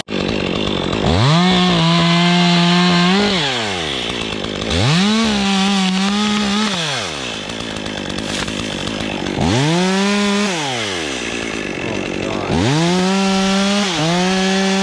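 Stihl MS 201 top-handle two-stroke chainsaw revved to full throttle and dropped back to idle about five times, each burst lasting one to two seconds, as it cuts into an ash tree.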